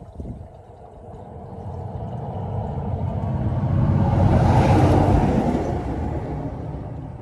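A road vehicle passing close by on the highway: a rushing engine and tyre noise that grows louder to a peak about halfway through, then fades away.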